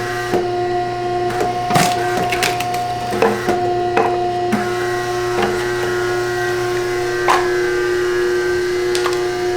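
A steady machine hum with a fixed pitch, with scattered knocks and clatter over it, the sharpest about two seconds in and again about seven seconds in.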